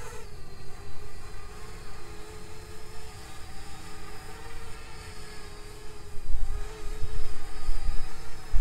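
Parrot Bebop 2 quadcopter hovering, its motors and propellers giving a steady buzzing whine that wavers slightly in pitch. Wind buffets the microphone from about six seconds in.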